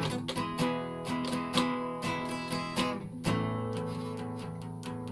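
Acoustic guitar strummed chords in an instrumental break, each strum ringing on; the last chord, about three seconds in, is left to sustain and fade.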